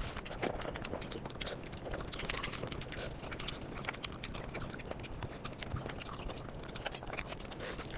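Close-miked eating sounds played back sped up: rapid chewing and mouth noises forming a dense stream of quick clicks.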